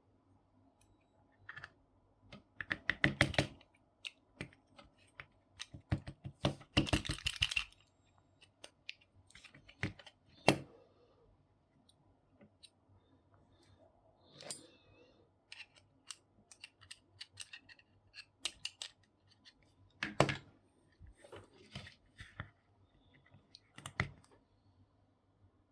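Small plastic and metal parts of a laminator's gear drive being handled and taken apart: irregular clicks and taps, with two short bursts of rapid clicking, one about three seconds in and a longer one around seven seconds in.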